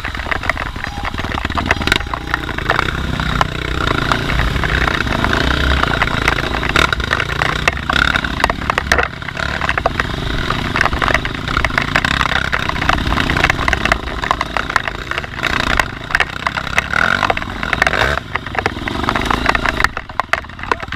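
A dirt-bike engine running and revving up and down as the bike is ridden over a trail, with frequent clatter and knocks throughout.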